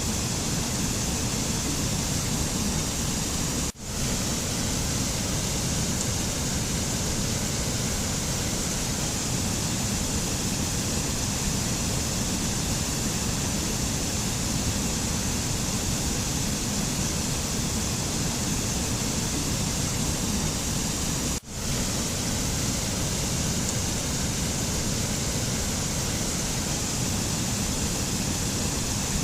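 Steady rushing noise of a mountain nature-sound recording, even throughout, with two very brief dropouts about four seconds and twenty-one seconds in.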